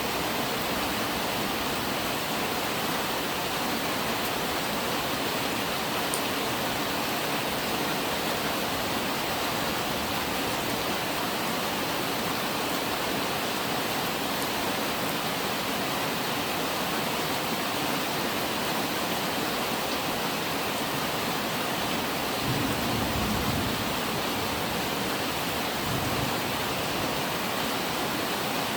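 Steady, heavy rain falling as an even hiss. A low rumble of distant thunder swells up about three-quarters of the way through, with a second short one near the end.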